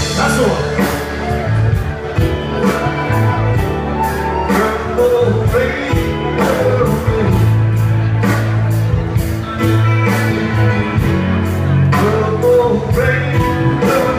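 Rock band playing with singing, electric guitar and bass over a steady drum beat.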